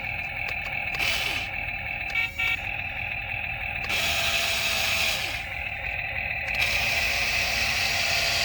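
Toy RC excavator running, with a steady electric motor whine.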